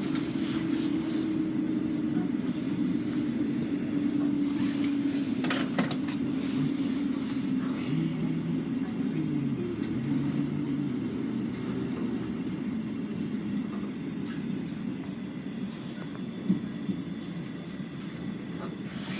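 Electric Merseyrail train slowing into a station, heard from inside the carriage: a steady low running hum whose motor tones step down in pitch about eight to eleven seconds in, the whole sound gradually easing, with a couple of brief knocks.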